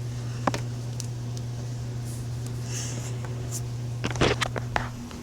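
A steady low hum, with a single click about half a second in and a short flurry of knocks and rustling about four seconds in.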